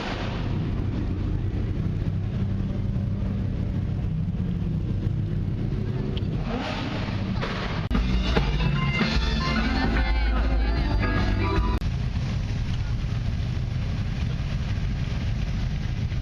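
A vehicle engine running with music playing over it. Both get louder for a few seconds from about eight seconds in.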